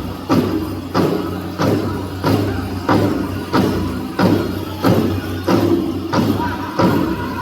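Powwow drum group singing over a large powwow drum beaten in a steady beat, about three strokes every two seconds.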